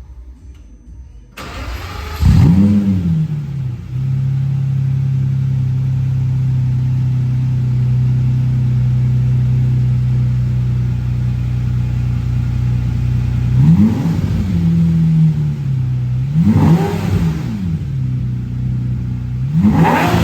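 Lamborghini Murciélago V12 engine starting about a second and a half in, flaring up in revs as it catches and then settling to a steady idle. In the last third it is revved three times, short blips about three seconds apart, each falling back to idle.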